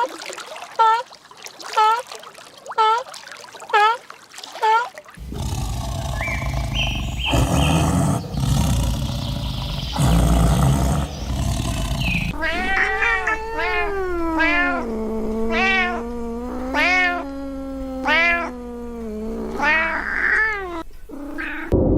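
Short honking calls repeated about once a second for the first five seconds, followed by a noisy stretch of several seconds without clear calls. After that, cats meow and yowl: a long drawn-out wail with shorter repeated meows over it.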